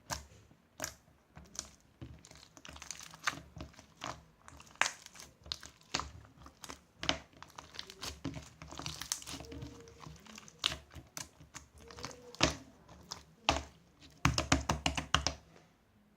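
Irregular crinkling and sharp clicks, with a quick run of clicks near the end.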